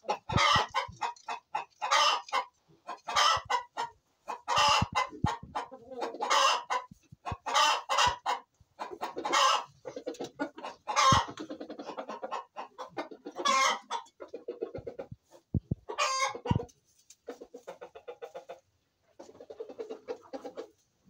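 Chickens clucking and calling in loud, short, repeated calls about once a second, turning quieter and more broken after about fourteen seconds.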